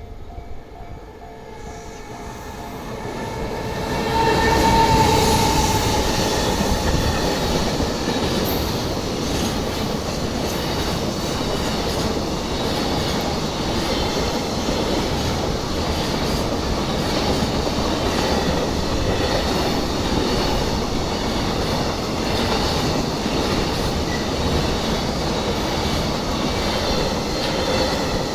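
A long train passing close by at a level crossing, its wheels running over the rails. The noise builds over the first few seconds, then holds as a steady loud rumble and clatter for over twenty seconds.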